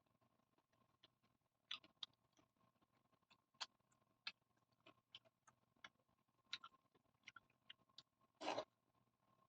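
Close-miked chewing and mouth sounds of someone eating: a string of irregular small, sharp clicks and crunches, with one longer, louder crunch near the end.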